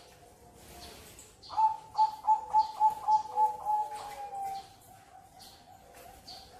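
Zebra dove (perkutut) cooing: a quick run of about eight clipped, evenly spaced notes, then a longer trailing note, with other perkutut cooing more softly in the background.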